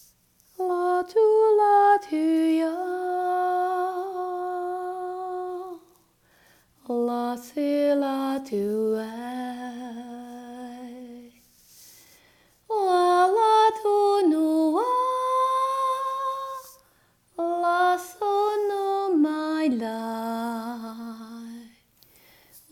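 A woman singing alone, unaccompanied and without words, in four slow phrases. Each phrase steps down in pitch and ends on a long held note, with a short breath pause between phrases.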